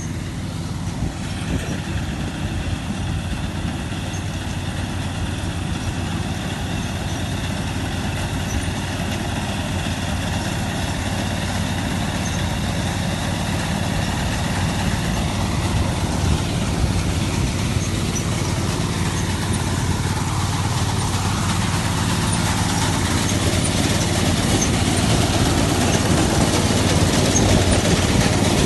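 Combine harvester's engine running steadily with a mechanical drone and whine, growing gradually louder.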